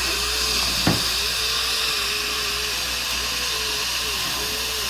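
Dental handpiece running against a tooth, its pitch dipping and recovering again and again as it meets the tooth, over a steady hiss of air and suction. There is one sharp click about a second in.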